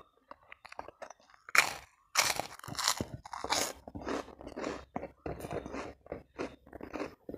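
A person biting and chewing crunchy food with crisp, crackling crunches. There is a sharp bite about a second and a half in, heavier crunching for the next couple of seconds, then quicker, uneven chewing crunches.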